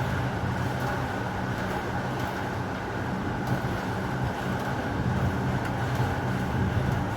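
Heavy rain falling steadily over a continuous low rumble of distant thunder.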